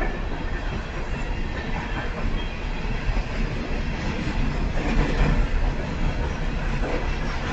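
Empty CSX coal train's cars rolling past, steel wheels clacking on the rails.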